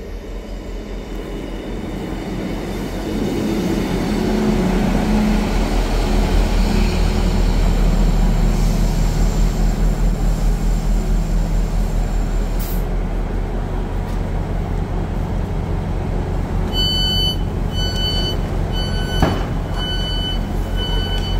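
Diesel multiple unit train running at the station platform with a steady low engine hum, growing louder over the first several seconds. From about two-thirds of the way in, a repeating electronic beep sounds roughly once a second, with a sharp click among the beeps.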